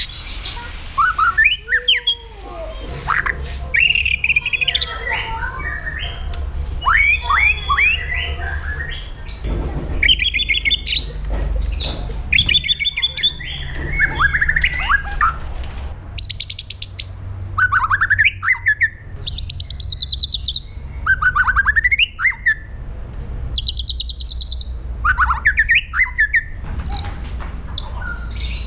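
White-rumped shama singing a varied song of whistled phrases, rapid chattering runs and harsh buzzy notes, over a low steady hum.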